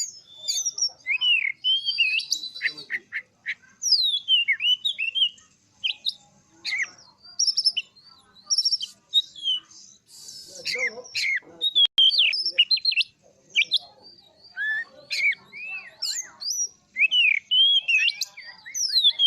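Oriental magpie-robin (kacer) in full song: a fast, varied run of clear whistles, rising and falling slurs and sharp chirps, delivered in short phrases with brief pauses.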